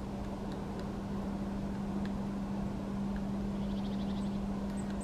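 Steady low hum over a rumble of background noise, like distant engine or traffic noise. About four seconds in comes a brief, faint, rapid tapping, and near the end a few short high bird chirps.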